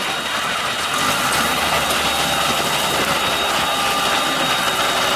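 Construction excavator's engine running, with a steady low rumble that comes up about a second in.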